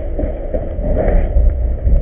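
Steady low rumble with small scuffs, the sound of wind and movement on a camera microphone.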